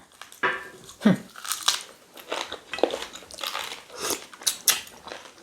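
Close-up chewing and biting of cow tail meat pulled from the bone, with irregular crunches and clicks of teeth.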